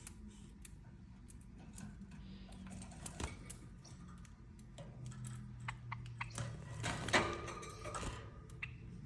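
A bird pecking at its food: irregular light clicks and taps of the beak, coming thicker and louder for a moment about seven seconds in, over a faint low hum.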